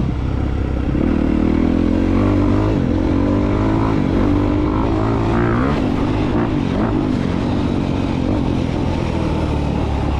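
2022 Honda CRF250R's single-cylinder four-stroke engine running under way, its pitch rising and falling with the throttle several times in the first half, then holding steadier.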